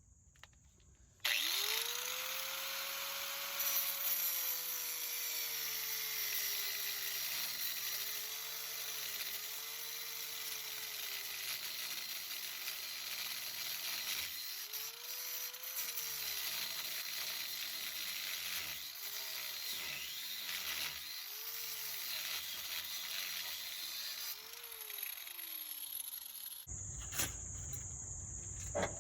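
Handheld power tool motor spinning up about a second in and running steadily with a harsh, noisy edge. Its pitch sags and recovers several times as it is loaded, with a brief stop and restart in the middle, then it winds down and cuts off near the end.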